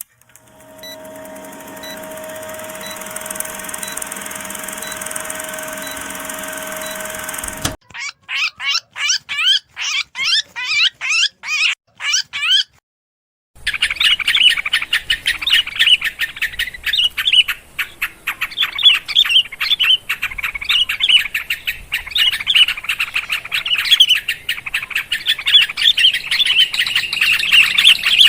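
Bulbul lure calls, sooty-headed and agitated yellow-vented bulbul, played to attract birds. A steady hum with faint regular ticks comes first. About eight seconds in, a series of falling chirps starts at about two a second. After a brief gap, a dense, noisy chatter of calls runs on.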